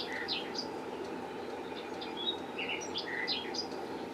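Small birds chirping, with many short high notes and quick up-and-down twitters, over a steady low background hum.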